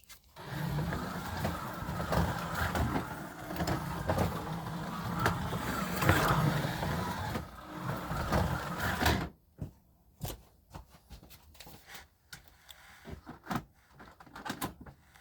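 A slot car's small electric motor whining as the car runs around the track, rising and falling in level for about nine seconds, then cutting off suddenly. Scattered light clicks and knocks follow.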